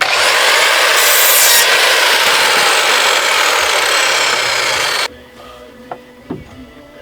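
Power saw cutting through a wooden board: a loud, steady cutting noise that starts suddenly and cuts off about five seconds in. Light knocks of handling follow.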